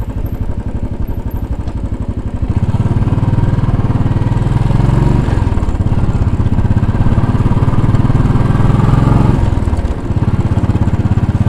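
2010 Royal Enfield Bullet 500's single-cylinder four-stroke engine running under way, with its fast, even pulsing exhaust beat. It grows louder about two and a half seconds in as the bike pulls harder, and drops briefly about halfway through and again near the end.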